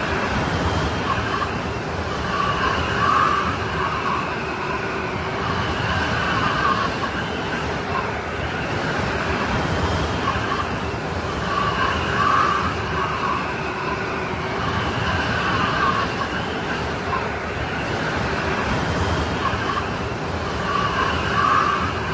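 Strong snowstorm wind howling, with whistling tones that rise and fall every three seconds or so over a steady rushing hiss.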